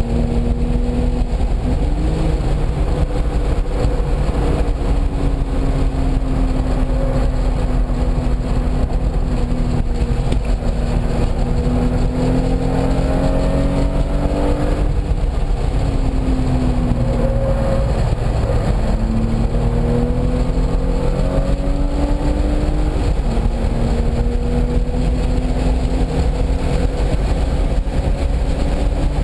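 A car's engine under hard acceleration on a race track. Its pitch climbs slowly and drops sharply several times as it shifts gears and brakes into corners, over steady wind and road noise.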